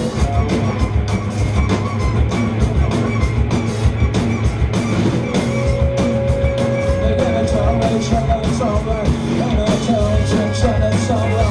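Loud live rock band playing an instrumental stretch: dense drumming over heavy bass and guitars. About halfway in a single note is held for a couple of seconds, then gives way to a wavering, winding melodic line.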